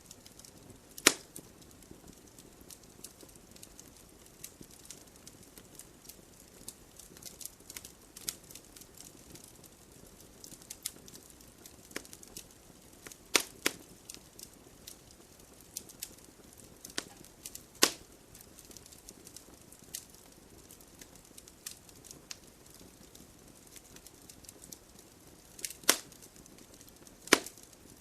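Wood logs burning in a fireplace: the fire crackles with many small scattered snaps over a low steady hiss of flame, and about five sharp louder pops stand out.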